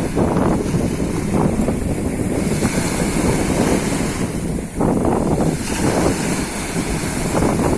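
Strong wind buffeting the microphone, a loud rough rumble, with waves washing on the shore beneath it.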